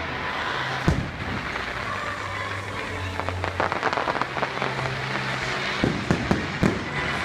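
Aerial fireworks bursting: a single boom about a second in, a run of crackling in the middle, and several bangs near the end, with sustained music underneath.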